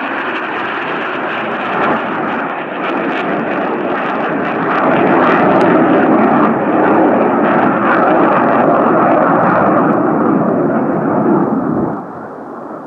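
F/A-18 fighter jet flying past, with loud, even jet-engine noise that swells in the middle and drops off sharply near the end.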